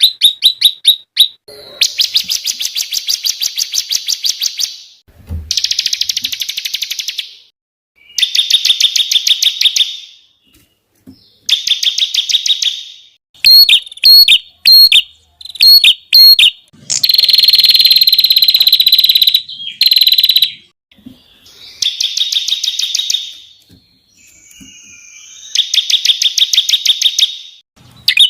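Songbird song of the kind used as a masteran for contest birds: rapid, high trilled phrases of fast repeated notes ('tembakan'), each a second or two long, with short pauses between them. About halfway through comes a run of sharp, loud chips, then a longer buzzy trill.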